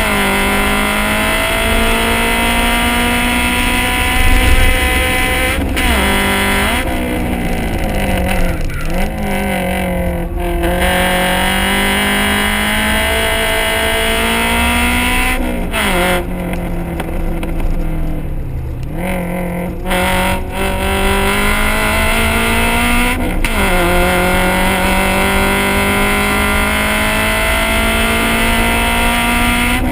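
Honda CRX four-cylinder engine and exhaust being driven hard on a race track. The pitch climbs through the revs and drops suddenly at upshifts. Twice, around a third of the way in and again past the middle, the engine goes off throttle and the pitch falls for a few seconds as the car slows.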